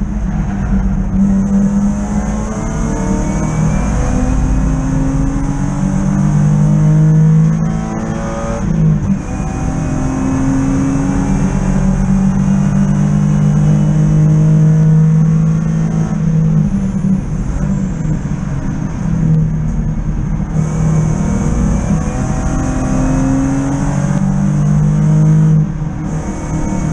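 BMW 323i E36 race car's straight-six engine, heard loud from inside the cockpit, pulling hard at racing speed. Its pitch climbs through each gear and drops at each gear change, several times over.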